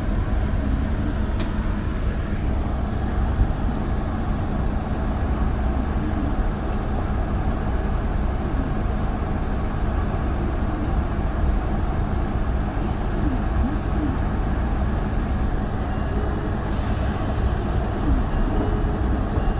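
Isuzu Erga city bus (2RG-LV290N3) heard from inside the cabin while running: a steady drone of the diesel engine and driveline with road noise, its pitch shifting slightly. Near the end a hiss of compressed air lasts about two seconds.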